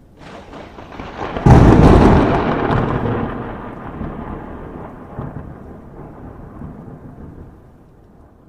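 A thunderclap: a crackle builds, a loud crack comes about a second and a half in, and then a long rumble fades slowly away over several seconds.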